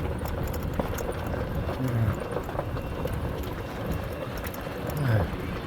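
A vehicle engine running at low speed, a steady low rumble with a rapid pulse.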